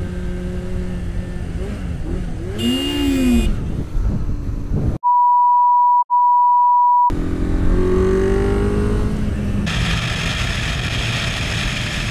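Motorcycle engine running under way, with a brief wavering, rising-and-falling sound about three seconds in. A steady high censor bleep then cuts out everything else for about two seconds, broken once in the middle. The engine returns and revs up with rising pitch, and an even rushing hiss, like wind, comes in near the end.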